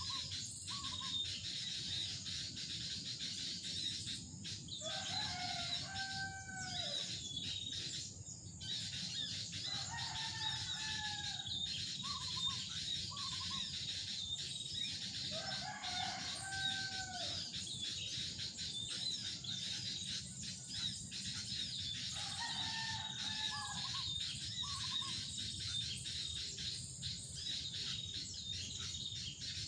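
A cock crowing four times, roughly every five to six seconds, each crow rising and then falling in pitch. Steady high insect buzzing runs underneath, with a few short bird notes.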